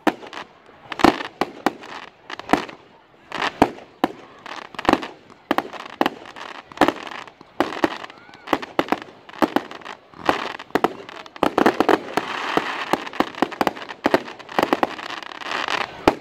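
Fireworks display: a quick, irregular series of sharp bangs from aerial shells, several a second at times. A denser stretch of crackling builds about two-thirds of the way through.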